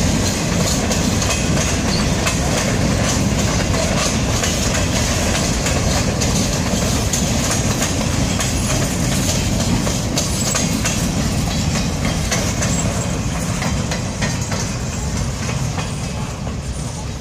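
Freight train boxcars rolling past, their wheels running on the rails with a steady rumble and repeated knocks. It fades over the last few seconds as the end of the train moves away.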